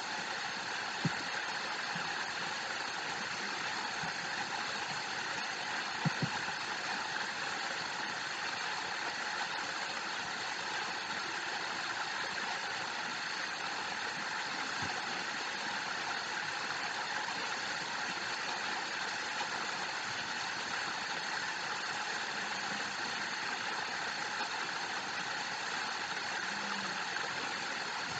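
Steady rush of falling water from a waterfall, with a couple of faint clicks in the first few seconds.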